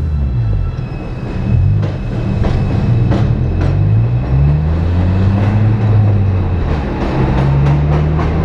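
2008 Acura TSX's 2.4-litre four-cylinder engine heard from inside the cabin through an aftermarket exhaust with a Dynamax resonator, giving a deeper note. Its pitch climbs and drops back several times as it accelerates through the gears. Irregular sharp knocks and rattles run over it from about two seconds in until near the end.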